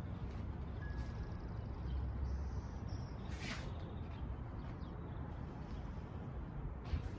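Outdoor ambience: a steady low rumble, with a faint short chirp about a second in and two brief rustling sounds, one near the middle and one near the end.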